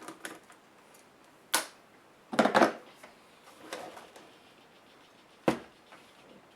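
Sharp clicks and a short clatter of small laptop parts being handled during disassembly: a single click about a second and a half in, a brief rattling clatter just after two seconds (the loudest), a fainter knock near four seconds, and another sharp click about five and a half seconds in.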